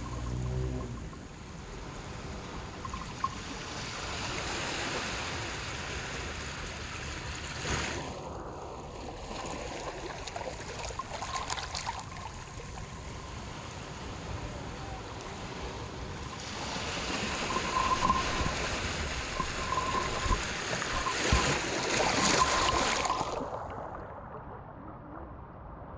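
Harbor water washing in small waves, swelling into louder splashing surges and falling back; the loudest spell comes about two-thirds of the way through, then it eases off near the end.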